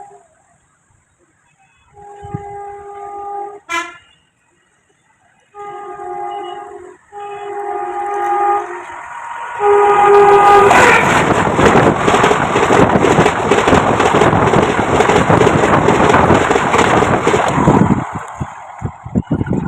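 Locomotive horn sounding four held blasts, the last running into the loud rumble and clatter of the train passing, which goes on for about eight seconds and fades near the end.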